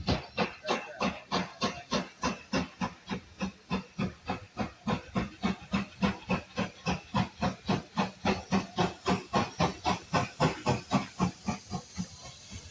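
Steam locomotive working, its exhaust beats chuffing evenly at about four a second, then dying away near the end, leaving a steady hiss.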